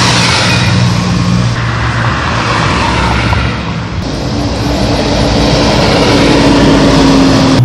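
Motorcycle engines running loud and close, with a new engine note that climbs slightly in pitch from about halfway through.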